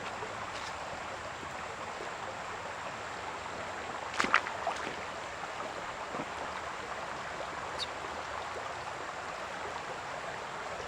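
Steady rushing noise, with a brief knock about four seconds in.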